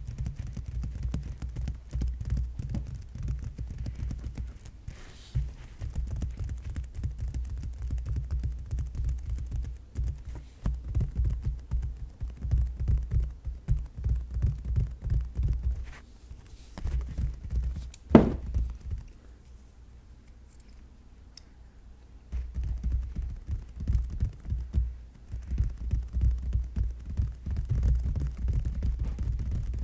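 Fingers tapping rapidly on objects: a quick run of dull, low taps, with one sharper, louder knock about eighteen seconds in, a brief lull, then the fast tapping resumes.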